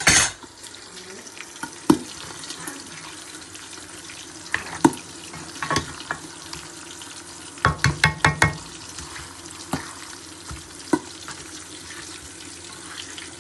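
Kitchen cooking sounds: metal utensils clatter and knock against a pot over a steady hiss. There is a loud clatter right at the start, scattered single knocks, and a quick run of ringing metal clinks about eight seconds in.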